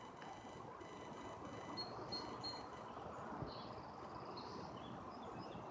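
Faint small birds chirping, short high notes coming more often in the second half, over a steady outdoor background hiss.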